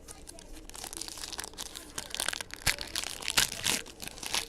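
Crinkling and crackling of a foil trading-card pack wrapper being handled, in irregular bursts that are loudest in the second half.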